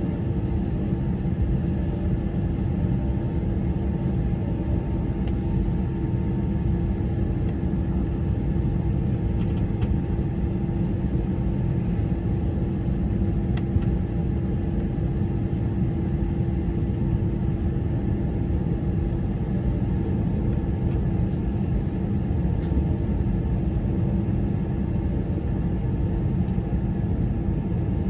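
Steady cabin noise inside an Airbus A321 airliner: a constant low rumble with a steady hum over it, unchanging throughout.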